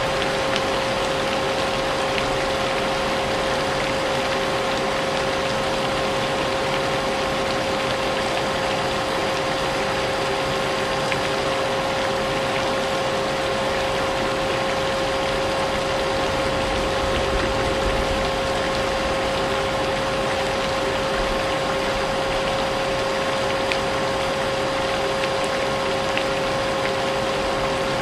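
Vacuum cleaner running steadily with a constant motor whine, mixed with an even hiss of rain.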